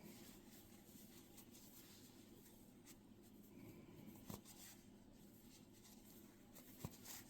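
Near silence: faint rustling of yarn being worked with a crochet hook, with a few soft clicks, about three seconds in, a second later, and near the end.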